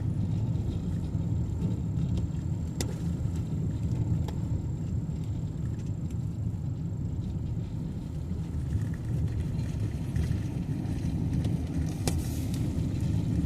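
Car cabin noise while driving: a steady low rumble of engine and tyres on the road, with a faint high whine through most of it and a couple of sharp clicks, one about three seconds in and one near the end.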